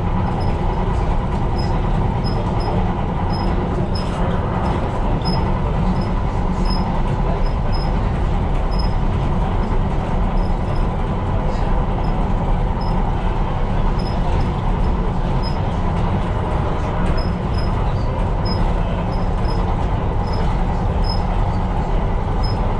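Tyne & Wear Metro train running steadily along the track, heard from inside the cab: an even, continuous rumble with a faint steady whine.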